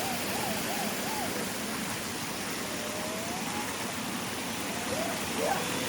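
Steady rushing of a mountain valley stream flowing over rocks, with faint distant voices now and then.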